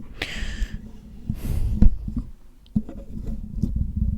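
Close-miked handling noise: soft scratchy rubbing and light taps over a low rumble, with two short breathy hisses in the first two seconds.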